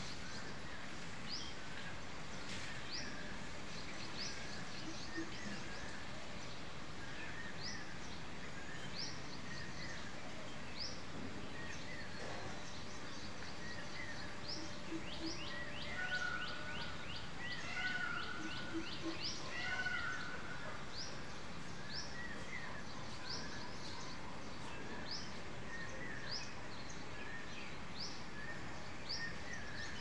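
Small birds chirping over a steady outdoor background hiss: short, high, falling chirps every second or two, a fast run of them about halfway through, and a few lower calls shortly after.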